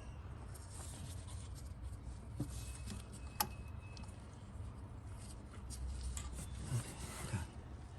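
Hands and tools working on parts in an engine bay: rubbing and scraping with scattered small clicks, one sharp click about three and a half seconds in, over a steady low hum.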